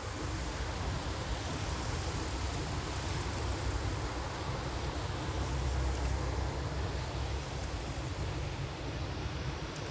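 Steady outdoor street noise, a rushing hiss over a low rumble of distant traffic, with wind on the microphone.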